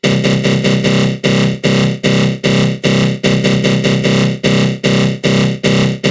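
Synthesized 'attack growl' sound effect: a loud synth growl run through a flanger, pulsing in even strokes about two and a half times a second.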